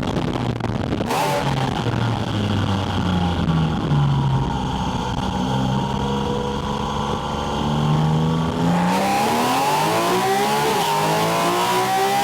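Porsche 718 Spyder RS's naturally aspirated flat-six, heard through a microphone on its air intake. It runs off throttle for several seconds with the revs falling, then about nine seconds in the throttle opens and the revs climb steeply under acceleration, with loud intake rush.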